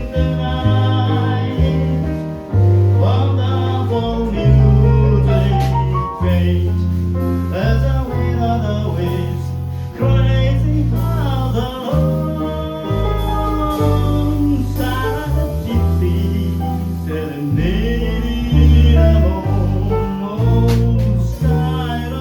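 A male jazz singer singing a ballad, accompanied by piano and a bass playing long, low sustained notes.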